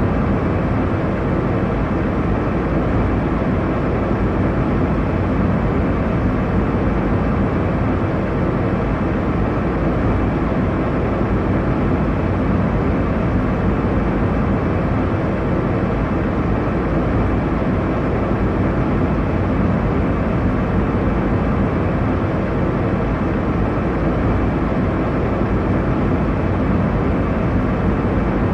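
Steady airliner cabin noise in flight: a constant low, even rumble and rush of engine and airflow, with no change in level.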